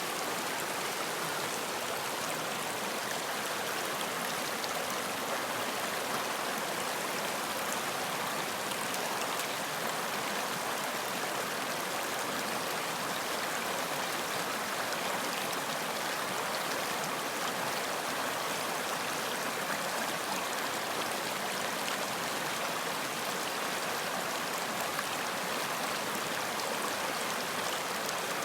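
Running water flowing steadily, an even hiss and splash with no change in level.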